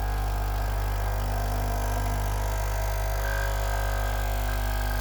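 Nespresso Citiz coffee machine's vibratory pump running with a steady, loud buzzing hum, pumping water and descaling solution through the machine. The once-stuck pump is now working.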